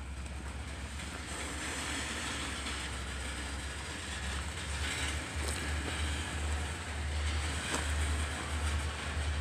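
Freight train of black tank cars rolling past on the near track: a steady low rumble and rail noise, with two sharp clanks, one about five and a half seconds in and one near the eighth second.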